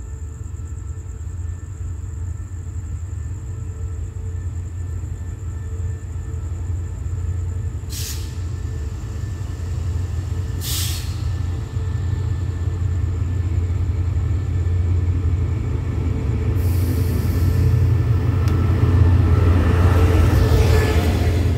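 Diesel locomotive of an express train drawing into the station: a steady low engine rumble that grows louder as it nears and is loudest as the locomotive passes close near the end. Two short hisses come about eight and ten seconds in, and a longer one about seventeen seconds in.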